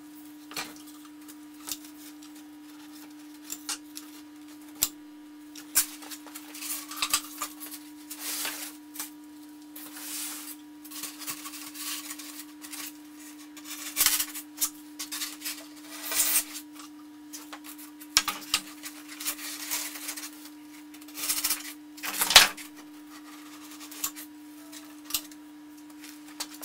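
Styrofoam blocks being handled, fitted together and pinned: irregular knocks, clicks and rubbing, heaviest around the middle and a sharp knock near the end, over a steady low hum.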